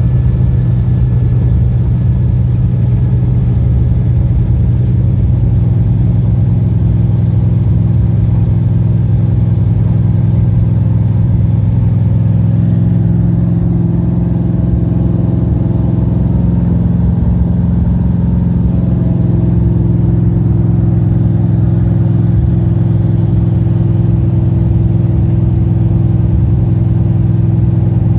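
Small-block Chevy V8 of a pro street Camaro heard from inside the cabin, running loud and steady while cruising on the road, its note shifting a little about two-thirds of the way through.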